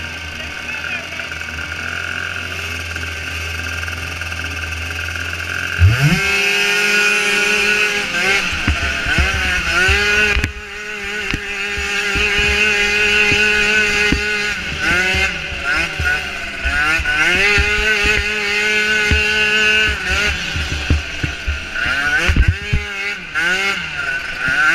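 Micro ATV engines idling with a steady low hum. About six seconds in they rev up sharply, then run at high revs with repeated rises and dips in pitch as the riders work the throttle.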